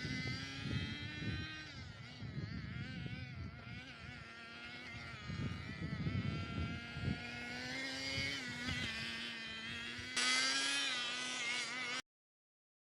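Kyosho Pure Ten GP's OS MAX CZ12 two-stroke glow engine running as the RC car drives, a high buzz whose pitch rises and falls with the throttle. The sound cuts off abruptly into silence about a second before the end.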